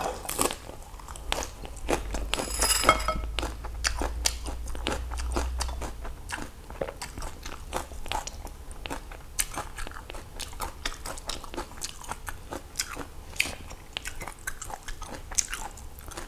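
A person chewing a mouthful of crunchy raw greens close to a clip-on microphone: a steady run of small crisp crunches and wet mouth sounds.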